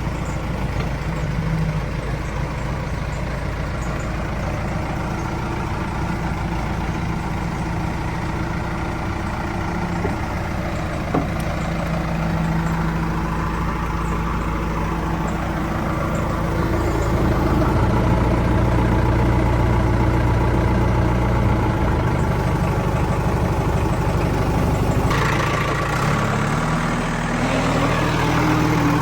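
Heavy diesel machinery engine running steadily with its speed shifting now and then, and revving up near the end.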